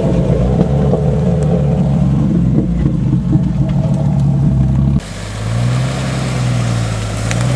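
Off-road 4x4's engine running hard for about five seconds. An abrupt change then brings a lower, smoother engine note that rises and falls as the throttle is worked.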